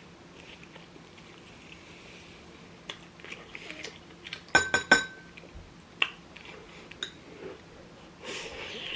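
Eating at a table: quiet chewing, with a quick run of sharp clinks of a utensil against a ceramic bowl or plate about four and a half seconds in, one of them ringing briefly. A few lighter taps follow.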